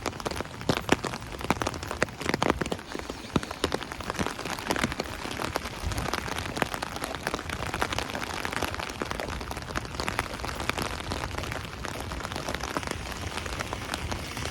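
Rain drumming on an umbrella overhead: a dense, steady run of drop hits with scattered louder single drips, more of them in the first few seconds.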